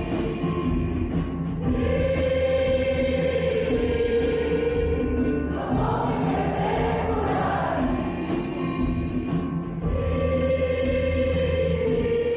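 Choir singing long held chords in phrases of about four seconds, over steady low notes.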